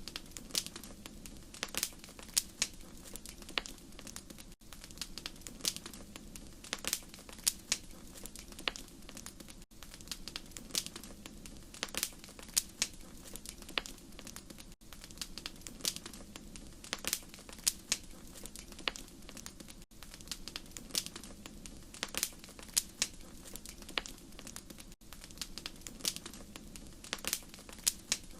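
Wood fire crackling in a fireplace: frequent sharp pops and snaps, several a second, over a steady low rumble of flames. There is a brief dropout about every five seconds, as at the seam of a looped recording.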